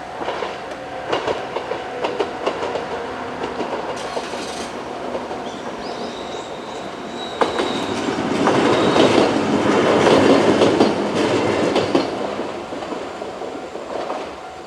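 JR West 103 series two-car electric train running past, its wheels clicking over the rail joints. It grows louder to a peak about two thirds of the way through, then fades. There is a brief high squeal near the middle.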